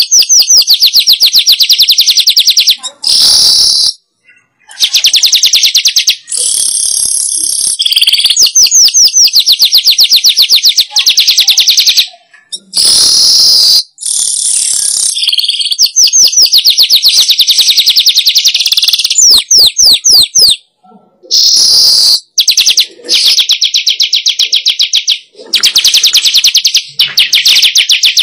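Manyar (weaver) song used as a bird lure: loud, fast rattling chatter made of rapid clicks, repeated in bursts a few seconds long with short breaks between them.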